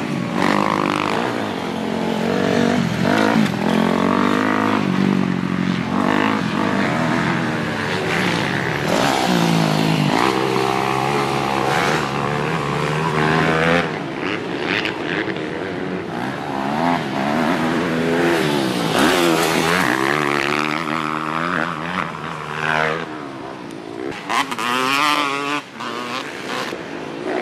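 Dirt bike engine running under a rider, its pitch rising and falling again and again as the throttle is opened and eased off.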